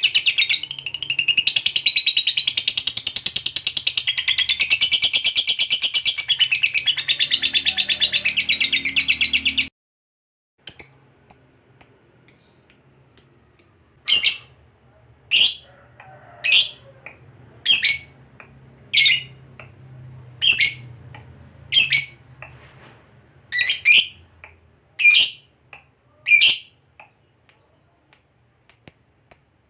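A lovebird's long 'ngekek' chatter: a fast, unbroken high-pitched trill that runs for about ten seconds and then cuts off suddenly. After that come separate sharp chirps, mostly about one a second.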